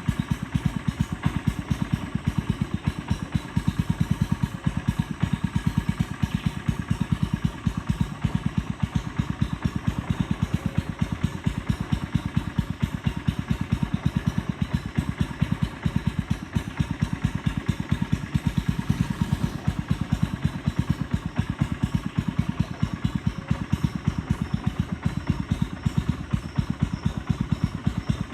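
Boat engine running steadily at constant speed, a rapid, even pulsing beat.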